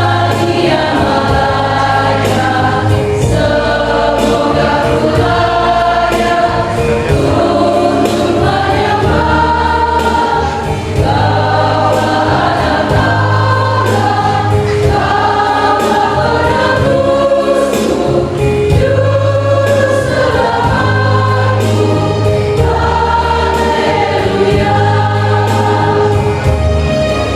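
Church choir singing a hymn, its phrases rising and falling over held low bass notes.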